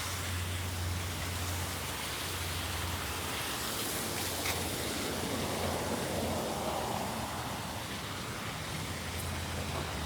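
Water falling steadily at a small pond waterfall, an even, unbroken splashing noise.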